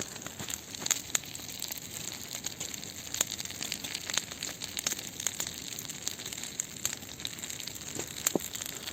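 Bonfire burning, a steady hiss with many scattered sharp crackles and pops as it flares up again.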